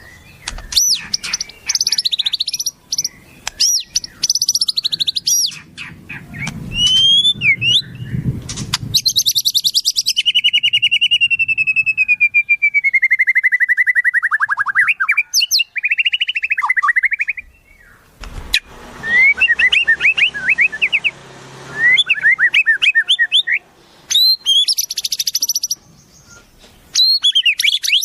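Wild songbirds singing, several recordings joined one after another: fast high whistles and trills, then a long trill that slides down in pitch from about ten seconds in, then quick rising chirps in a series.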